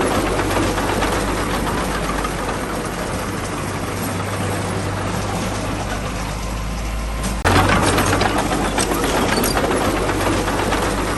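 Heavy diesel machinery engine running steadily. About seven and a half seconds in the sound suddenly becomes louder and brighter.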